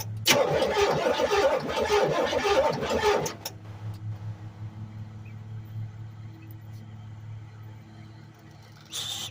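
Buick 455 V8 engine running, loud and busy for about the first three seconds, then falling to a quieter, steady idle hum. A short burst of noise comes near the end.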